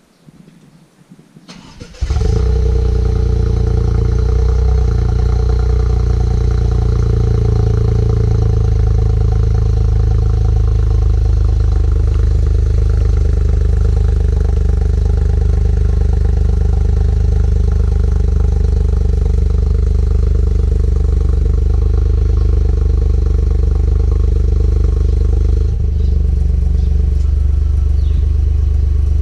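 Toyota GR Yaris three-cylinder engine with an aftermarket sport exhaust muffler, starting up about two seconds in and then idling steadily through the exhaust.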